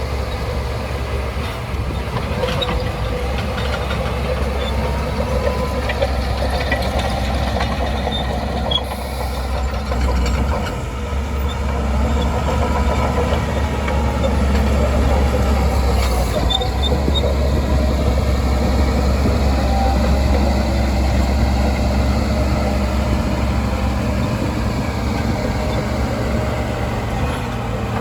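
Shantui DH17C2 bulldozer's diesel engine running steadily with a deep rumble, growing somewhat louder about a third of the way in.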